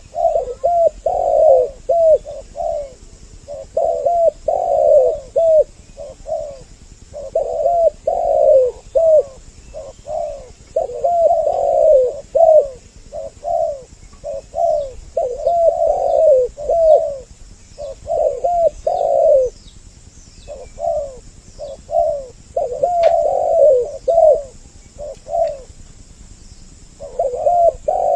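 Spotted doves cooing: two birds, male and female, calling over each other in runs of repeated phrases, each run broken by a short pause. A few faint high chirps from other small birds come through midway.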